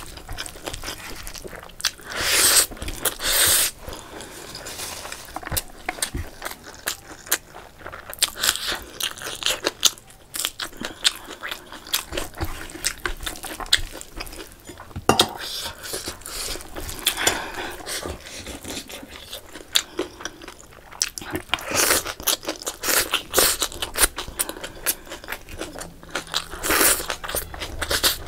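Close-miked wet chewing and mouth smacking as a person eats handfuls of rice with chicken curry, a quick irregular patter of clicks with a few louder, longer smacking bursts.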